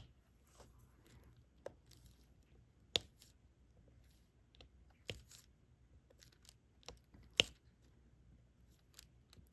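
Diamond painting drill pen picking up small resin drills and pressing them onto the adhesive canvas: scattered sharp little clicks and taps, the loudest about three, five and seven seconds in.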